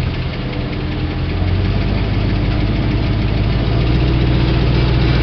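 Truck engine running at idle, a steady low drone whose note steps up slightly about a second and a half in and then holds.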